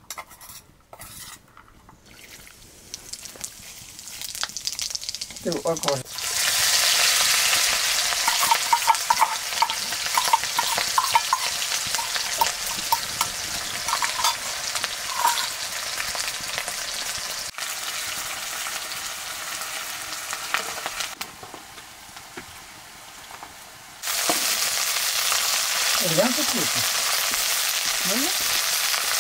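Hot oil in an iron kadai sizzling loudly as onions fry, starting suddenly about six seconds in. The sizzle eases, then jumps back up about five seconds before the end as leafy mustard greens go into the pan.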